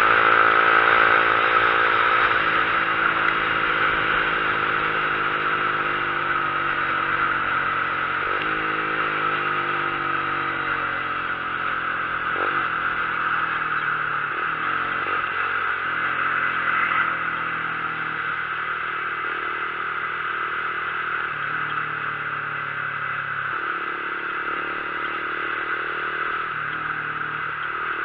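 Vehicle engine running on the road, its note sliding down and shifting in steps as the speed changes, under a steady rush of wind over the microphone.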